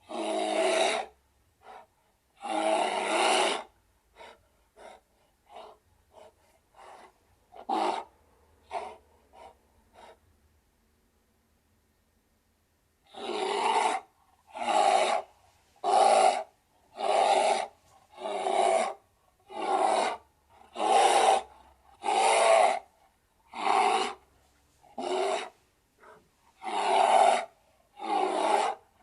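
A bear's rough, rasping vocalizations. Two long growls open it, followed by a few short huffs. After a pause of a few seconds comes a steady run of about a dozen growling breaths, a little over one a second.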